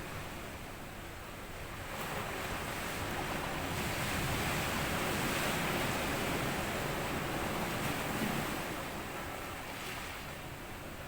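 Small sea waves washing up onto a sandy beach: the surge swells about two seconds in, peaks in the middle and eases off near the end.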